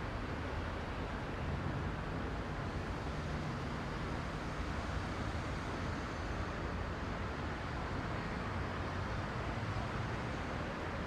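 Dense road traffic: a steady wash of engines and tyre noise with a low rumble, no single vehicle standing out.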